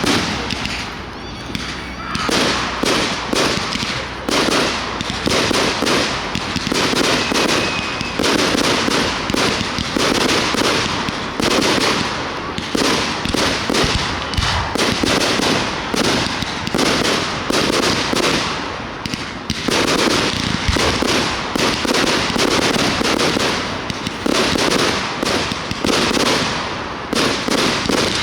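Aerial fireworks bursting in a rapid, continuous barrage of bangs and crackling, with brief lulls about two seconds in and near the end.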